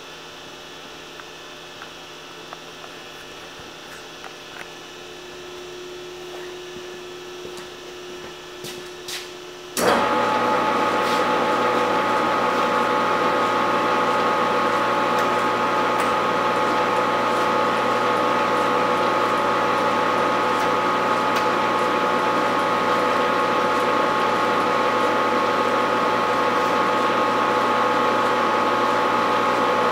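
Grizzly 12 x 36 engine lathe: a few clicks of its controls, then about a third of the way in the motor and gearing start at once and run at a steady speed with a constant whine.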